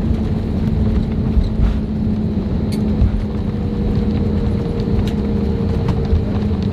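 Cabin noise of an Airbus A321neo rolling on the ground just after landing: a loud, steady low rumble with a constant hum over it. A few light knocks and rattles come through along the way.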